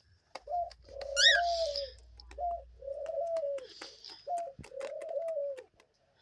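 A dove cooing, three times in a row, each coo a short note followed by a longer one. There is a brief high chirp about a second in, and light clicks and scratches from the cage.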